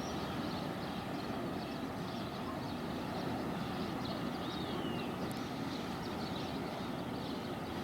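Jet airliner, an Airbus A330 freighter, passing high overhead: a steady, even rumble of distant jet engines.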